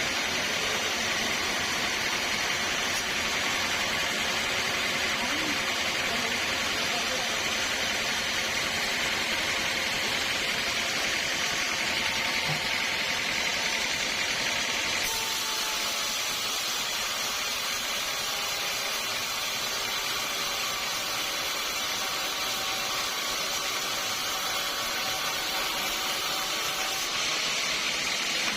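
Sawmill machinery running steadily, with a hissing, even noise. The sound changes abruptly about halfway through and changes back near the end.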